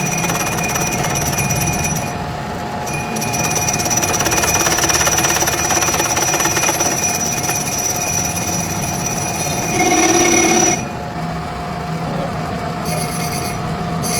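Metalworking machinery running steadily: a continuous high whine over grinding, scraping noise, with the sound shifting abruptly a couple of times.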